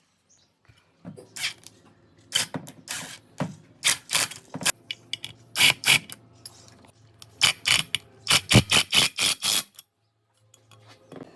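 A series of sharp knocks and clicks, irregular at first and then quickening to a rapid run of about six a second near the end before stopping suddenly.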